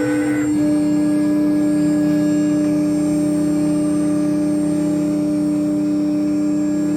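Laguna Swift CNC router's spindle running at a steady speed during its warm-up cycle: a constant, even whine, with a second higher tone joining about half a second in.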